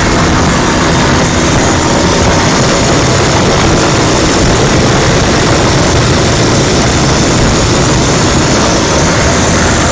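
Helicopter in flight: loud, steady engine and rotor noise with a few faint steady tones and no change in level.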